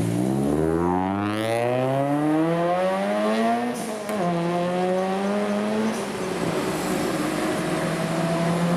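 Subaru Impreza WRX STI's turbocharged 2.0-litre flat-four running through a 3-inch cat-back exhaust, accelerating. The engine note climbs for about four seconds, drops at a gear change, climbs again briefly, then drops and holds steady about six seconds in.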